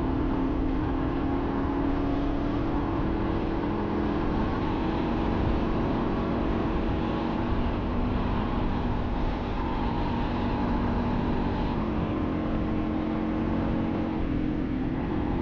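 Motorcycle engine running steadily while riding, its pitch drifting only slightly, with wind rumbling on the microphone.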